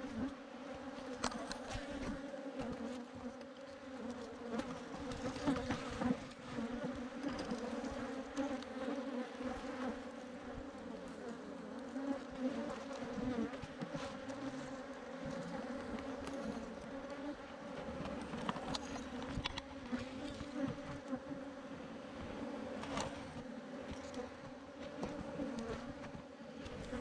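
A swarm of Africanized honey bees buzzing as a mass in a steady, dense hum, with a few light knocks.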